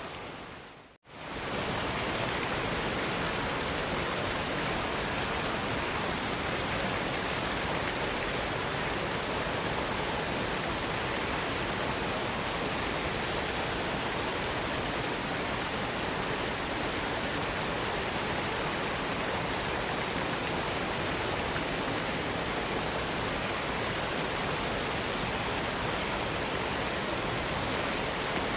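Waterfall rushing, a steady, even hiss of falling water. About a second in it fades out to near silence and swells back, like an edit or loop point.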